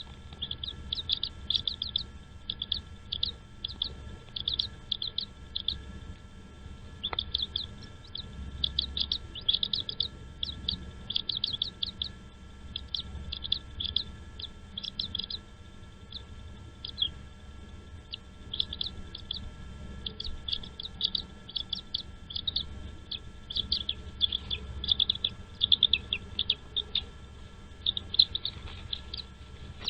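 Birds chirping: rapid runs of short, high-pitched chirps in repeated clusters, with a steady low rumble underneath.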